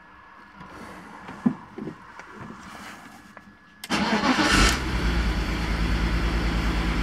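After a few faint clicks, the BMW E46 320i's M54 straight-six is cranked by the starter about four seconds in and catches at once, settling into an evenly pulsing idle. This is its first start after a long repair, and the idle is a little uneven, like a slight misfire.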